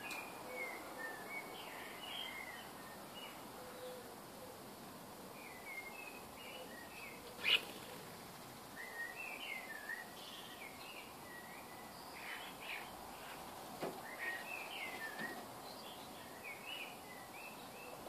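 Birds chirping and twittering in short bouts over a steady background hiss, with one sharp click about seven and a half seconds in.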